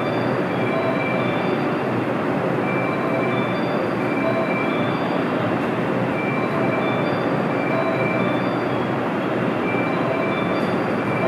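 A freight train rolling steadily through the station, its wagons making a continuous loud rumble. Brief high wheel squeals come and go throughout.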